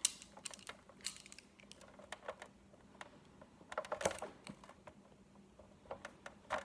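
Light, irregular clicks and taps of a small wrench working at the motor and gear of a Big Mouth Billy Bass, with a quick cluster of clicks about four seconds in.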